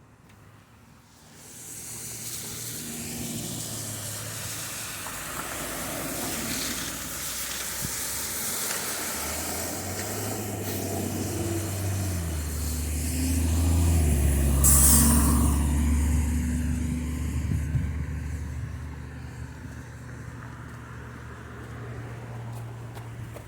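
Heavy vehicle, a truck or bus, approaching and passing on a snowy street, its engine drone building and then easing off, with tyre noise throughout. A short sharp hiss of air brakes comes about 15 seconds in.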